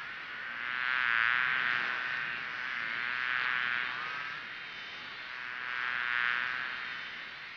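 A flying insect buzzing continuously, swelling and fading in loudness about three times.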